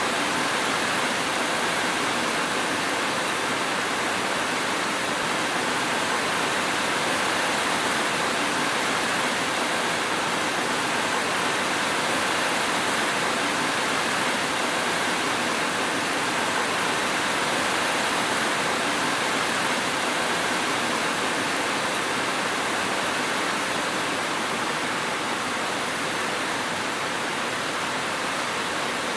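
Steady rain: a dense, even hiss with no single drops or thunder standing out.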